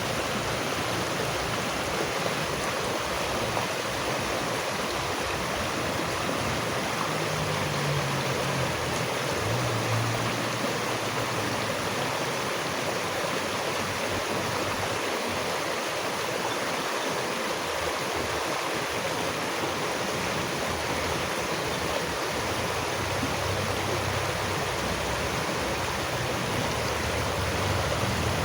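Running water rushing steadily, like a stream flowing over rocks.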